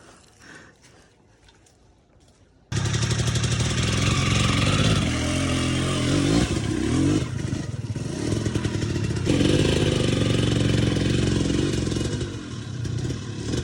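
Dirt bike engine running and revving, its pitch rising and falling with the throttle. It cuts in suddenly about three seconds in, after a quiet stretch.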